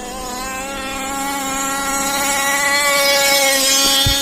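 Two-stroke racing engine of a Losi 5ive-T 2.0 gas RC car running at high revs with a high, buzzing note. It grows steadily louder, holds its pitch, and drops off sharply near the end.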